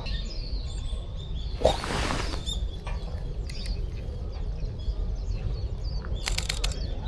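Birds chirping, with a short loud whoosh about two seconds in. Near the end comes a quick run of sharp mechanical clicks, a camera shutter firing in burst mode.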